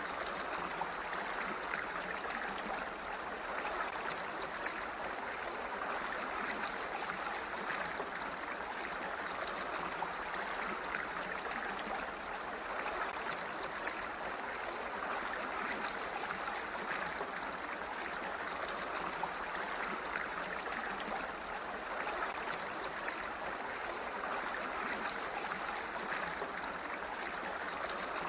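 Water flowing steadily, a continuous rushing that swells and eases gently every few seconds.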